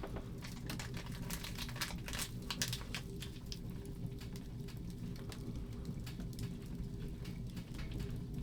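Irregular light clicks and crackles, scattered unevenly, over a low steady hum.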